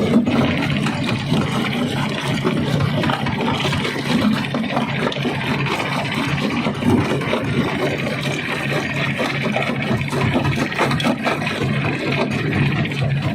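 Stone crusher running: a steady engine drone with many small irregular knocks and clatter throughout.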